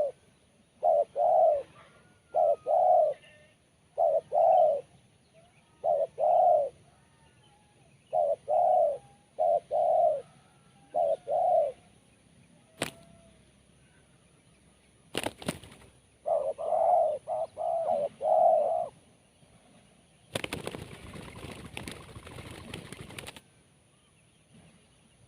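Spotted dove (tekukur) cooing: short, sharp coos repeated every second or two, then after a pause a quick run of four coos. A click and a clatter fall in the pause, and near the end there are about three seconds of rustling noise.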